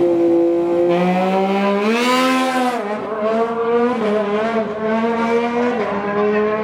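Superbike engines held at high revs, with a rev rising and then dropping back about two seconds in.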